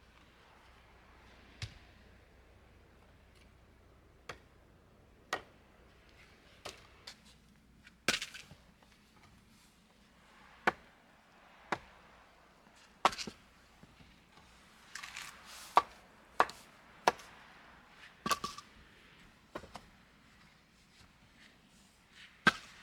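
A series of sharp, irregular knocks and clacks, about fifteen of them spaced unevenly a second or so apart, with a short run of clattering about two-thirds of the way through, like hard objects being handled and set down.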